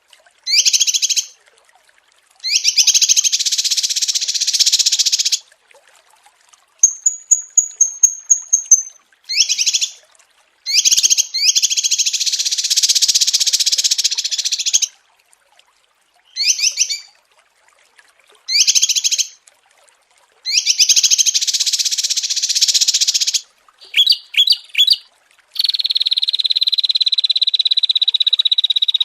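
Small songbird song on a masteran training track: short bursts of rapid chirping and longer buzzy trills, separated by clean silent gaps, with a quick run of thin high whistles partway through. Near the end a steady high buzz takes over and runs on.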